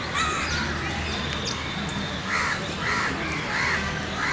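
Crow cawing, a quick run of about five harsh caws in the second half.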